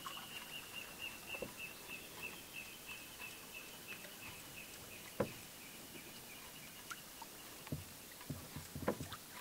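A bird calling in a long run of evenly spaced high notes that slowly fall in pitch, faint over quiet outdoor background. There are a few short knocks, one about five seconds in and several near the end.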